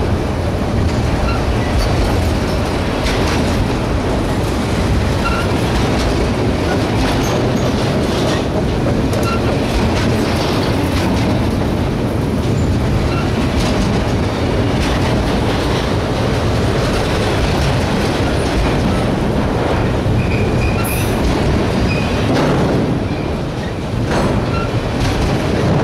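Autorack freight cars of a passing train rolling by at close range: a steady loud rumble of steel wheels on rail, with occasional clicks over the rail joints and a few short, high squeaks from the wheels.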